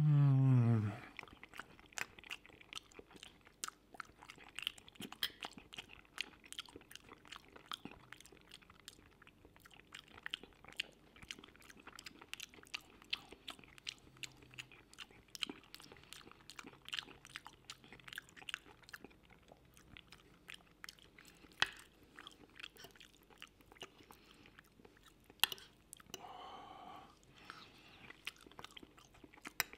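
Close-miked chewing of a mouthful of creamy mushroom pasta: wet mouth sounds and many small irregular clicks. A short voiced sound at the start, another one near the end, and a single sharp click a few seconds before the end.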